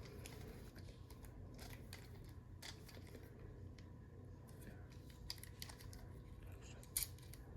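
Faint, scattered clicks of the plastic joints and panels of a Transformers Sandstorm action figure being folded and snapped into place during its transformation, with a sharper click about seven seconds in, over a low steady hum.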